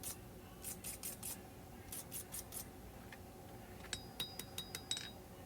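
Hammer striking hot high-carbon steel on an anvil while shaping a knife blade's profile: light, quick blows in short runs, and from about four seconds in a faster run of blows with a brief metallic ring after each.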